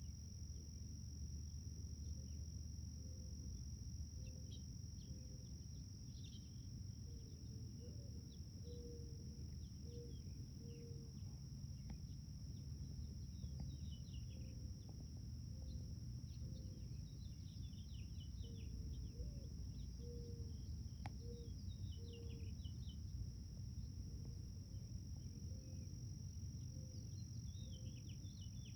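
Outdoor garden ambience: a steady high-pitched insect drone, with scattered bird chirps and a run of short, low repeated notes over a faint low rumble.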